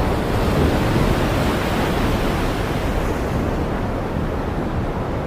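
Steady rushing storm noise with wind buffeting the microphone, a continuous rumbling roar that eases slightly toward the end.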